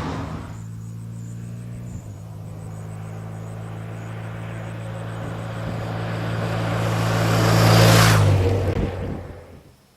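A motor vehicle's engine hum, steady in pitch, growing louder to a peak with a brief rush of wind noise about eight seconds in, then dying away quickly.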